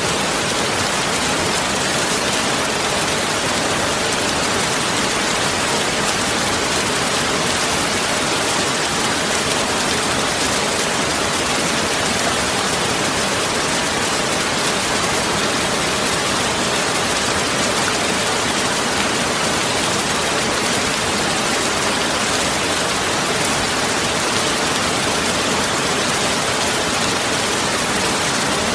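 Steady heavy rain: a dense, even hiss of falling rain with no thunder and no change in strength.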